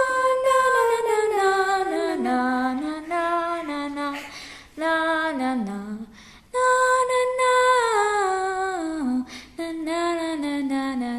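A girl's voice singing unaccompanied, without clear words, in several short phrases that each step down in pitch from a held high note to a lower one.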